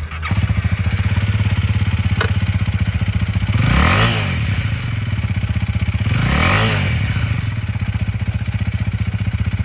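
Honda Rebel 300's single-cylinder engine idling, then blipped twice, about four seconds in and again near seven seconds, with the pitch rising and falling each time.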